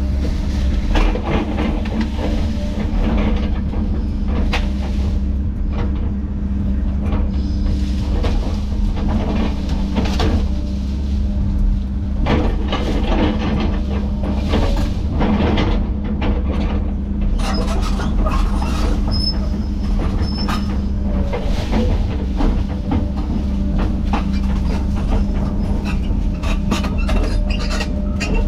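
Heavy diesel machinery running steadily under load, with frequent sharp cracks and knocks throughout.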